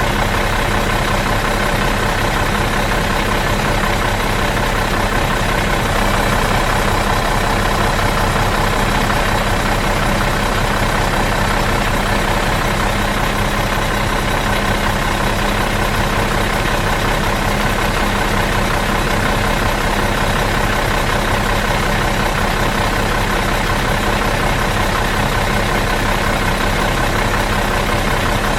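Bus engine idling in neutral, a steady, even drone that does not change.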